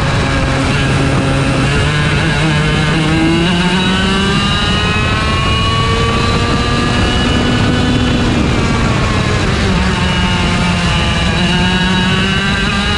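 IAME Leopard 125cc two-stroke kart engine at full throttle, its pitch climbing steadily for several seconds, then dropping as the throttle comes off for a corner about eight seconds in, and climbing again near the end.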